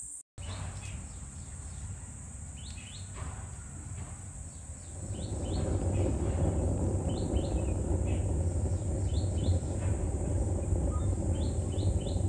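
Small birds chirping in quick groups of two or three short falling notes every couple of seconds, over a steady high-pitched drone. About five seconds in, a louder low rumbling noise comes in and stays.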